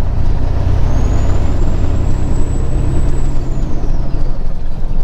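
Semi truck's diesel engine droning steadily in the cab while driving. A thin high whine rises about a second in, holds, then falls away near four seconds.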